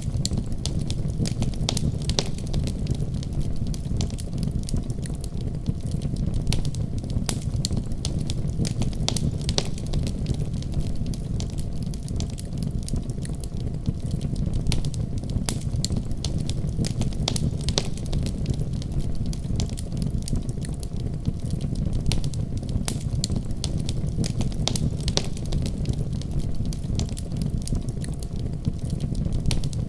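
Wood fire burning in a fireplace, crackling with frequent small pops and snaps over a steady low rumble of flames.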